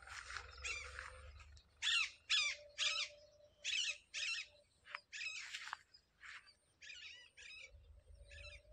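Birds calling: a series of short, sharp, warbling calls in small clusters of two or three, loudest about two to four seconds in. A faint steady hum sits under the calls at times.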